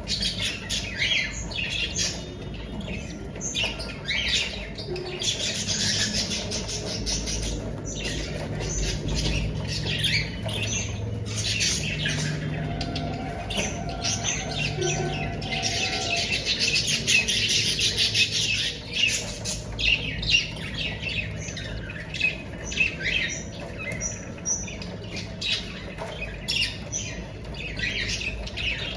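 Cockatiels squawking and calling in a rapid series of short harsh calls, with two longer stretches of dense, raspy calling, one around five seconds in and one in the middle.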